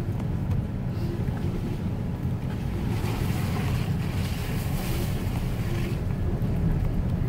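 Truck driving slowly over a rough dirt forest road: a steady low rumble of engine and tyres, with a brighter hiss that swells in the middle and fades.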